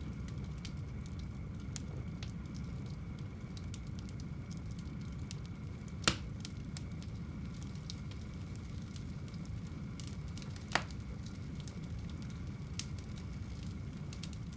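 Wood fire burning in a home fireplace: a steady low rumble of flames with scattered small crackles, and two louder pops about six and eleven seconds in.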